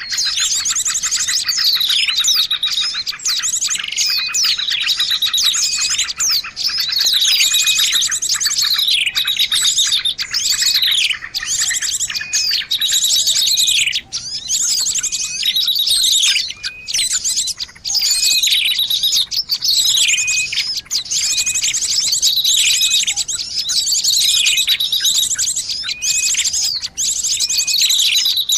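Small songbirds chirping densely in a bird-lure recording: sharp calls that sweep downward repeat every second or two over a fast, buzzy trill, with no pause.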